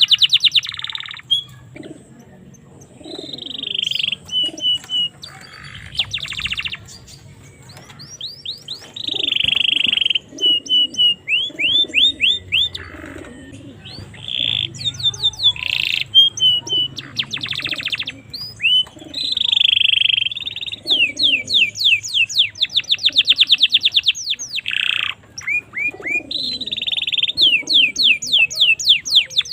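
Domestic canary singing a long, varied song of rapid trills and rolls of repeated notes, in phrases broken by short pauses.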